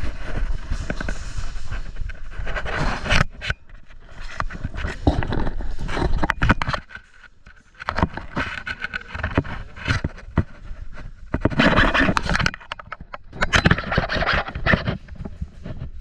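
Heavy breathing with rustling and scraping movement noise, broken by scattered sharp clicks and a brief lull about halfway through.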